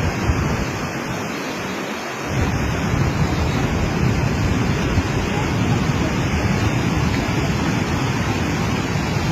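Steady rushing noise of floodwater, with wind buffeting the microphone in a low, uneven rumble.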